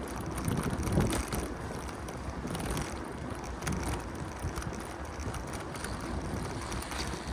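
Bicycle being ridden along a city street: tyre rumble with scattered light clicks and rattles from the bike, and wind on the microphone.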